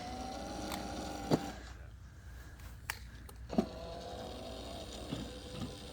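Electric drive motors of a 12 V kids' ride-on truck whining as it drives. One run stops after about a second and a half, and a second run at a lower pitch starts about three and a half seconds in. A few sharp clicks fall in between.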